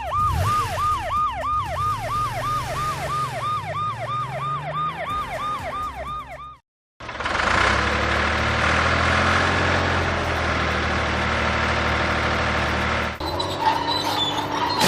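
Cartoon siren sound effect: a yelping wail that repeatedly falls and rises about three times a second, then cuts off. After a brief silence comes a steady noisy rumble for about six seconds, then quieter mixed sounds near the end.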